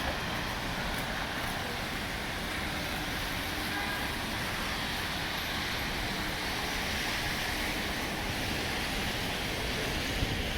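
Steady city street traffic noise: cars driving along a snowy downtown street.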